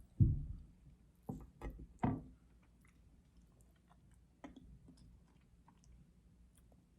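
A person chewing food close to the microphone, with wet mouth clicks. A low thump comes just after the start, and three sharper clicks follow between about one and two seconds in.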